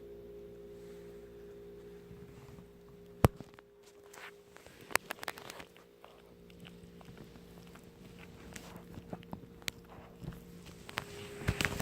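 Scattered light clicks and taps from a puppy moving about, with one sharp click about three seconds in, over a steady electrical hum.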